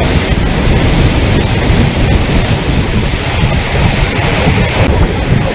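Floodwater rushing steadily and loudly, as over an overflowing lake spillway, with wind buffeting the microphone. The sound changes abruptly just before the end.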